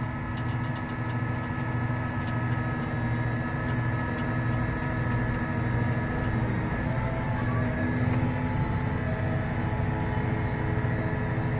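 Large John Deere farm tractor diesel engine running steadily under heavy load, straining to pull a tile plow that is stuck on a buried stump.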